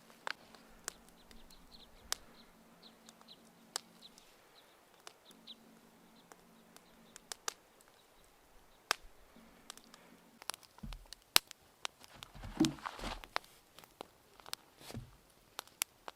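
Wood fire crackling, with irregular sharp pops. A few faint high chirps come in the first few seconds, and a short spell of rustling and thuds comes about twelve seconds in.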